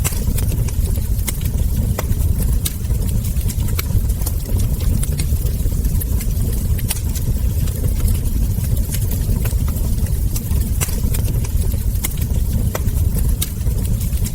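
Wood fire burning: frequent, irregular sharp crackles and ember pops over a steady low rumble.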